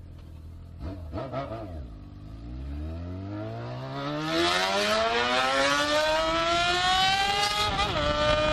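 Honda Hornet motorcycle engine blipped twice, then accelerating hard in one long rising pull, with wind noise building as speed rises. The engine pitch drops at a gear change near the end and runs on.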